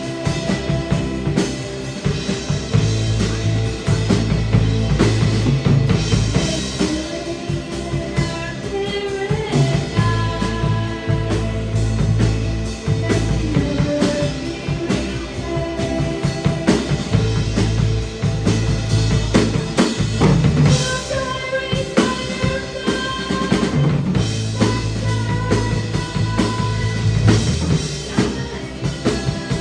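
Rock band playing live, with the drum kit prominent: bass drum and snare driving the beat under bass and melodic lines.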